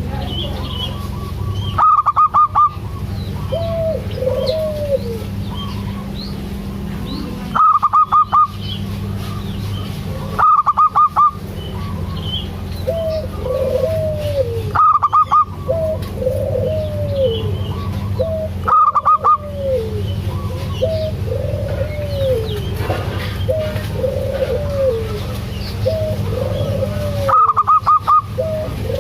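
Zebra dove (perkutut) calling: repeated arched cooing notes, with a very loud burst of four or five quick, higher notes several times over. A steady low hum runs underneath.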